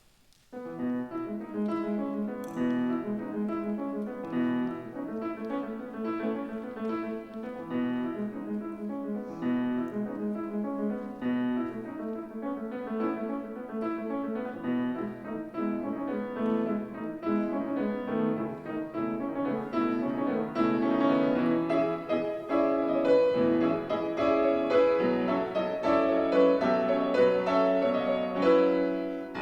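Piano playing a fast, busy passage of many quick notes, starting about half a second in and growing louder in the second half.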